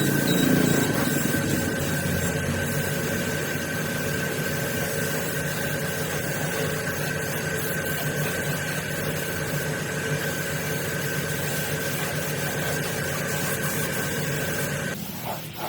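A machine running steadily with a constant high whine over a noisy hum, cutting off near the end.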